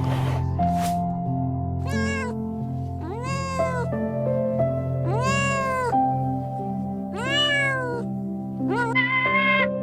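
A cat meowing five times, each call about half a second to a second long and rising then falling in pitch, over background music.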